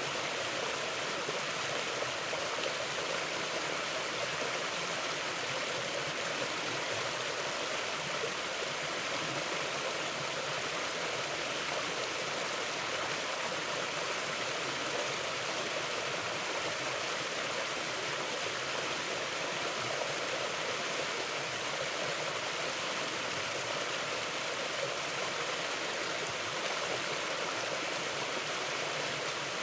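Mountain river flowing over rocks, a steady rushing of water.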